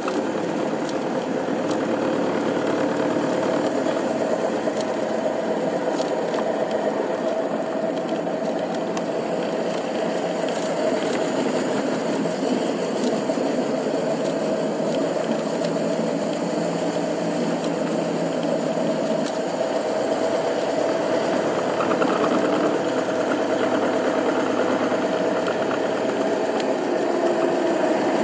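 Ford Model T's four-cylinder side-valve engine running steadily as the car is driven, heard from the driver's seat.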